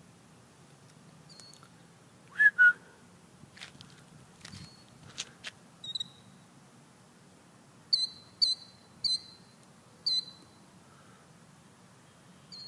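Birds calling: a loud double note about two seconds in, then a few faint clicks and short chirps, then four high, short whistled chirps in quick succession.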